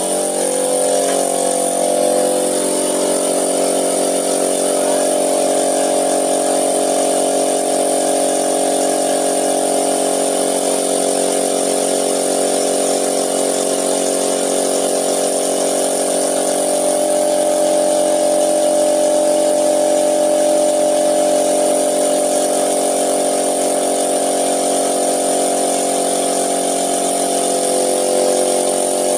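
A motor-driven machine running steadily at a constant speed, giving an even, unchanging hum with a hiss above it.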